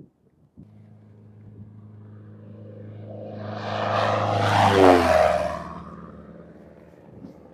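Fixed-wing airplane making a low pass over the runway without touching down. Its engine drone builds steadily and peaks loudly just before five seconds in. The pitch drops sharply as it goes past, and then the sound fades away.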